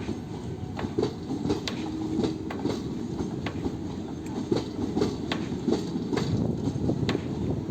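Moving train running on the rails: a steady low rumble with frequent, irregular sharp clicks and knocks from the wheels and carriages.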